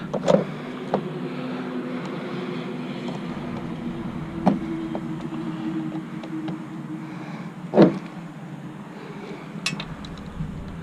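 A few sharp knocks and clicks of hand work with tools and parts, the loudest about two-thirds of the way through, over a steady low hum.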